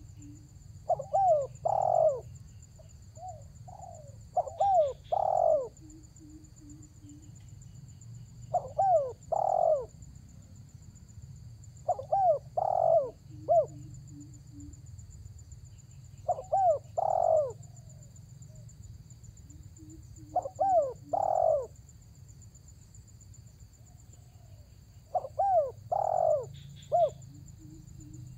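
Spotted dove (tekukur) in full voice, repeating its cooing phrase of a few swooping notes about every four seconds, seven times, as a challenge call to a rival. A faint steady high whine runs underneath.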